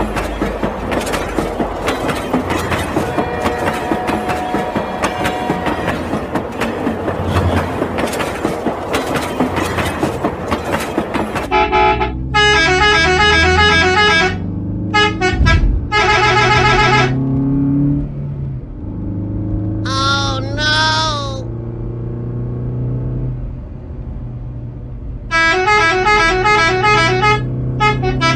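Toy train sound: a steady train clatter for about the first eleven seconds. Then a battery-powered toy bus plays its electronic horn in several bursts of quick beeping notes over a low hum.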